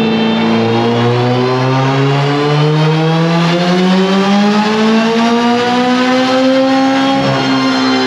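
Turbocharged Honda B18 four-cylinder engine making a full-load dyno pull, its revs climbing steadily for about seven seconds before a brief break near the end.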